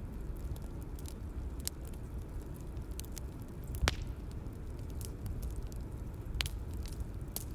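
Bonfire crackling: a steady low rumble of burning with scattered sharp pops, the loudest pops about four seconds in and again about six and a half seconds in.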